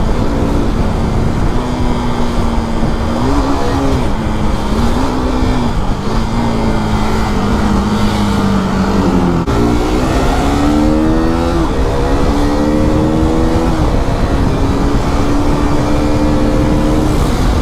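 KTM 390 motorcycle's single-cylinder engine running hard at speed. In the second half the revs fall and climb again several times through the gears. A steady rushing noise runs under it.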